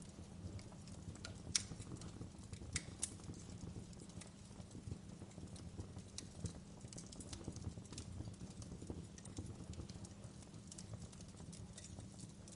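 Wood fire crackling in a fireplace: irregular sharp pops and snaps over a steady low rumble of burning logs, with a few louder pops about one and a half and three seconds in.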